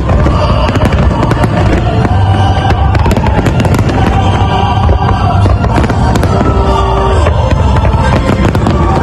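Fireworks display: a dense run of bangs and crackles over a heavy low rumble, with music playing alongside.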